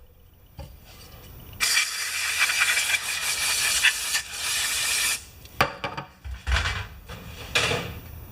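Aerosol spray cleaner hissing steadily for about three and a half seconds as the generator's carburetor float bowl is sprayed clean, followed by a few shorter bursts and knocks.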